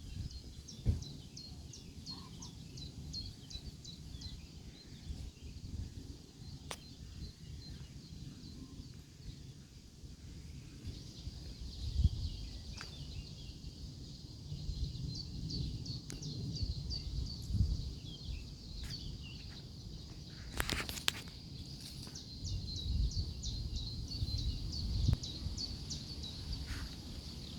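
Small birds singing: runs of quick, high chirps repeating over and over, over a steady low rumble with a few thumps and one sharp knock about three quarters of the way in.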